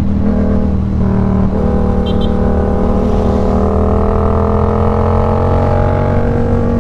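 Yamaha MT-07's parallel-twin engine pulling under way, its pitch dipping briefly about a second and a half in, then climbing slowly and steadily as the revs build.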